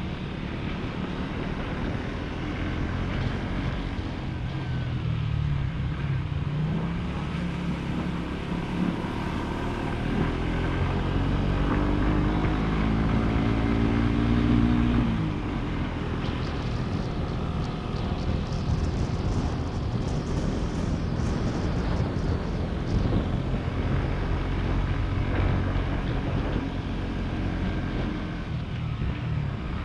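Motorcycle engine running while riding. The pitch climbs through the middle as it revs up, drops suddenly, then runs on evenly.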